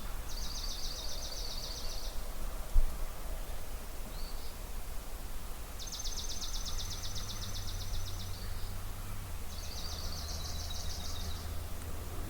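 A small songbird singing a rapid, dry trill of quickly repeated high notes, three times, each about two seconds long. A single low thump comes about three seconds in, and a low steady hum sets in around halfway.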